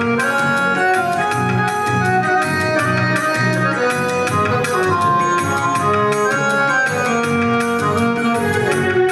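Roland EX20 portable keyboard playing a melody of held notes in an organ-like reed tone, with chords and a bass line beneath and a light rhythm accompaniment.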